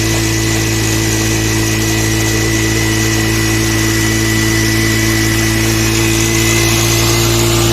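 Honda CD 70 motorcycle's single-cylinder four-stroke engine running steadily at one speed, driving a tubewell water pump.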